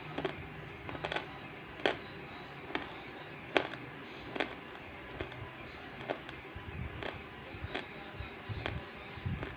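Water dripping in a steady series of sharp drops, about one a second.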